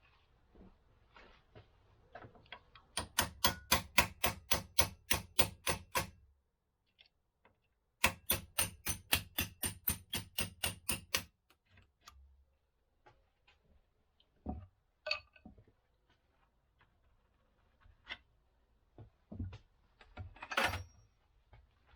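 Two runs of rapid, evenly spaced mechanical clicks, about four or five a second, each lasting around three seconds, followed by scattered single knocks and taps of tools on metal.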